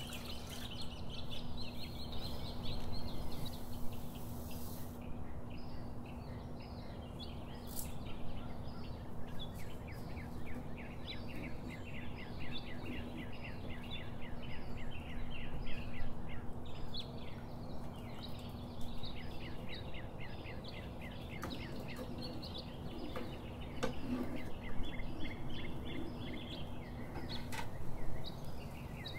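Small birds chirping rapidly and almost without pause, over a steady low hum and background noise.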